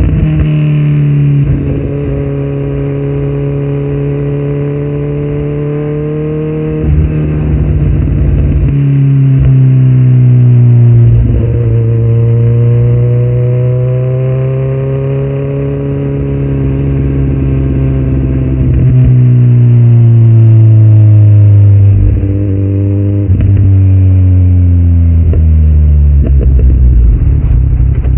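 Kawasaki Z900's inline-four engine running under way through a Yoshimura muffler and Delkevic headers with no dB killer. Its pitch climbs and falls in long sweeps, with several brief breaks where it drops or jumps, as when changing gear or rolling off the throttle.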